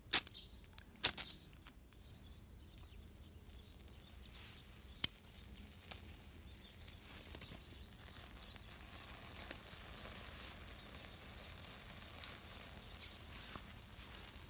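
Two sharp knocks with a ringing top, about a second apart, then a single sharp click about five seconds in, over a faint steady outdoor hiss.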